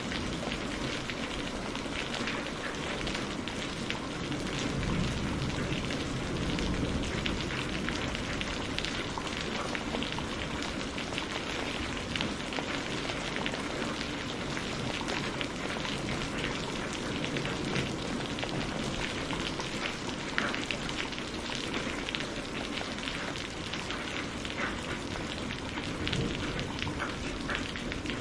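Steady rain falling on a surface: an even hiss of rainfall with fine scattered drop ticks throughout.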